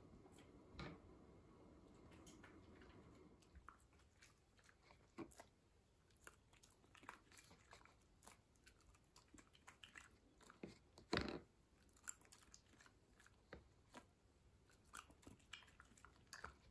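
Faint, irregular crunching and chewing, with one louder crunch about eleven seconds in.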